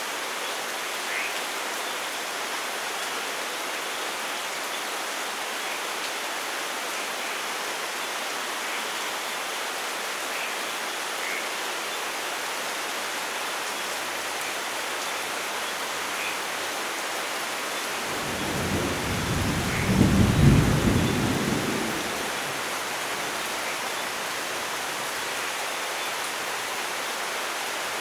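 Steady heavy rain hiss, with one roll of thunder that swells to a low rumble about two-thirds of the way through, peaks and dies away over roughly four seconds.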